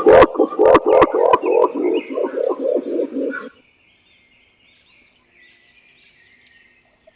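Green imperial pigeon giving its deep, rapid cooing roll, about five hoots a second, which stops about three and a half seconds in; a few sharp clicks come near the start. Faint high chirping of small birds follows.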